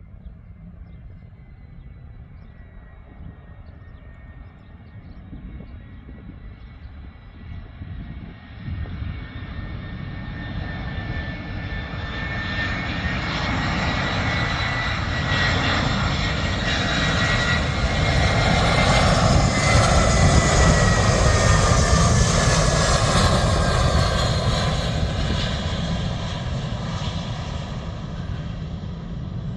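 Jet airliner passing. Its engines grow steadily louder, are loudest about two-thirds of the way through, then begin to fade, with a high engine whine that drops slightly in pitch as it goes by.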